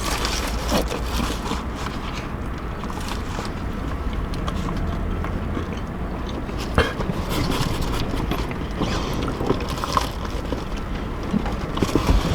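People eating fast food: scattered small clicks, scrapes and bites over a steady low rumble.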